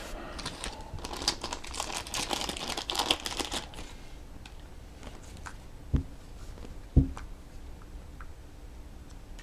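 Crinkling and clicking of small parts and packaging being handled at a workbench for a few seconds. Later come two short knocks about a second apart as something is set down.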